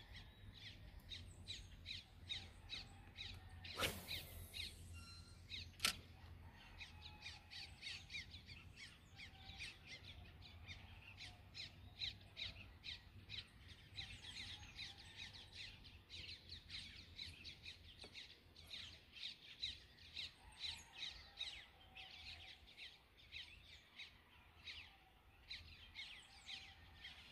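Faint chorus of birds chirping, many quick, short, high calls repeating throughout over a low steady rumble. A single swish about four seconds in and a sharp click about two seconds later stand out above it.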